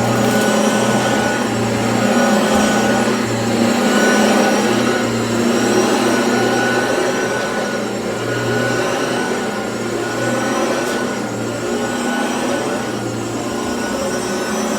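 Hoover ONEPWR cordless upright vacuum running steadily, most likely on high, while it is pushed over carpet: a constant motor whine with a low hum that swells and fades in an uneven rhythm.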